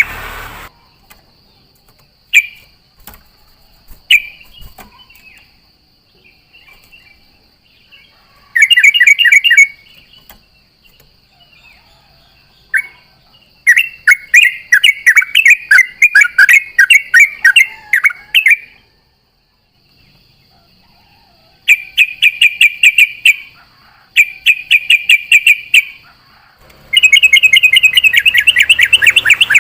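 Yellow-vented bulbul (trucukan) singing: bursts of fast, bubbling, repeated notes a few seconds apart, with single short notes in between. A faint, steady, high-pitched tone runs underneath.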